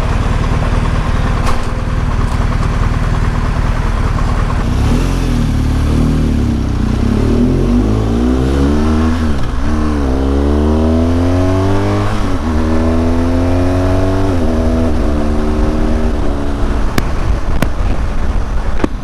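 BMW R1200GS Adventure's boxer-twin engine pulling away from a standstill, running low for a few seconds, then revving up and dropping back in pitch several times as it is shifted up through the gears.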